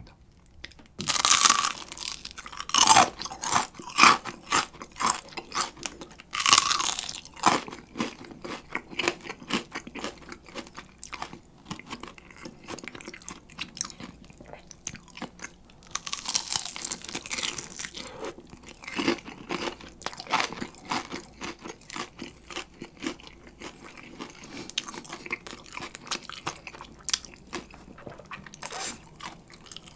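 Close-miked bites into Kyochon Rice Chicken, a very crispy rice-coated fried chicken: loud crunching bites about a second in, around six seconds and around sixteen seconds, with continuous crunchy chewing between them.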